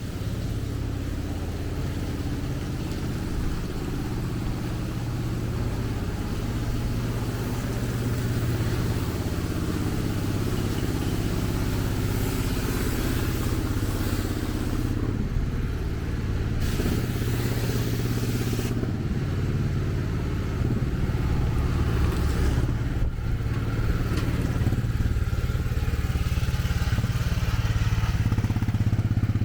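A motor vehicle running nearby, a steady low hum under a constant hiss of street noise.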